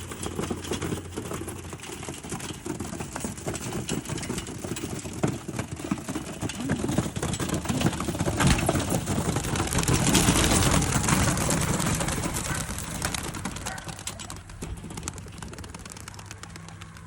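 A flock of racing pigeons beating their wings in a rapid clatter. The sound swells to its loudest about ten seconds in, then fades.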